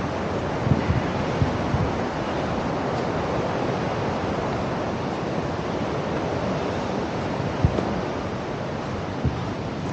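Waterfall rushing steadily, with a few brief low thumps now and then.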